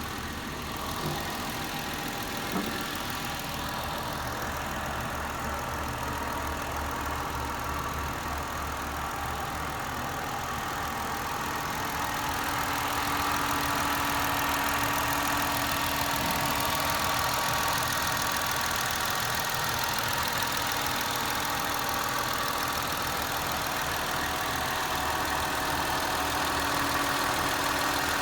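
2010 Mercury Milan's engine idling steadily, growing a little louder about halfway through.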